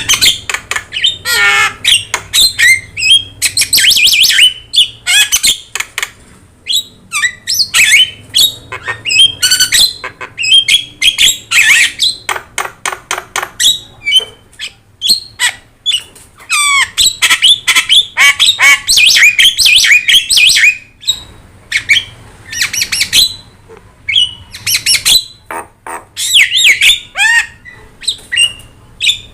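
Javan myna (jalak kebo) calling busily: a rapid, varied stream of harsh squawks, clicks and whistled notes, broken by short pauses.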